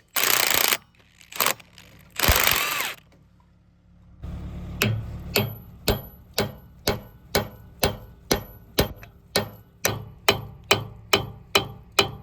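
Steel hammer blows on the hammermill's shaft collar, struck evenly about twice a second with a metallic ring after each blow. Two short bursts of hiss come first, in the opening seconds, followed by a brief lull before the hammering starts.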